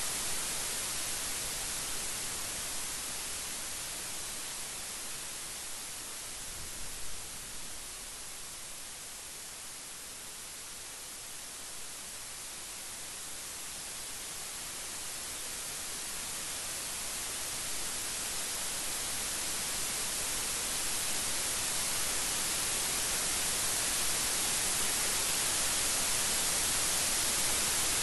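Steady rain, a dense even hiss. It eases a little in the middle and builds again toward the end.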